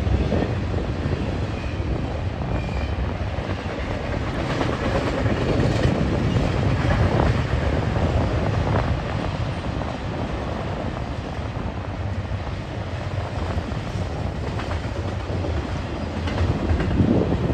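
Freight train of double-stack container cars rolling past: a steady rumble with occasional clacks from the wheels.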